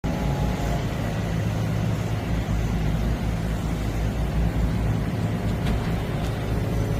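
Machine tool running steadily while drilling aluminium bar stock, a constant low hum with a couple of faint ticks near the end.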